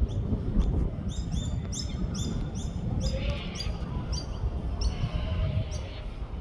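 Masked lapwings calling in a rapid series of short, sharp, high notes, about two to three a second, over a steady low rumble.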